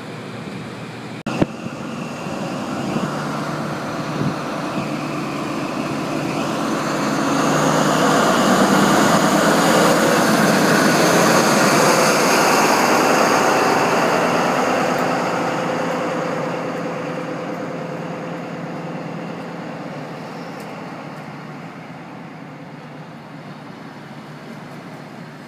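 Diesel HST train (Class 43 power cars with Mark 3 coaches) moving along the platform: a rumble that swells to its loudest about eight to fourteen seconds in, then slowly fades. A single sharp click just over a second in.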